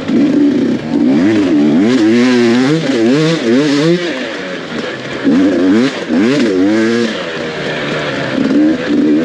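Off-road dirt bike engine ridden hard, its revs climbing and dropping again and again as the rider throttles and shifts through the enduro course.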